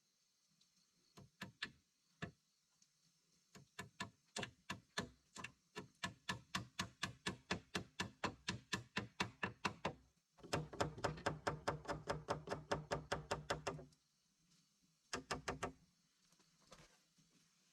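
Rapid, rhythmic knocking blows, about four a second, in long runs that stop and start, with a short burst near the end.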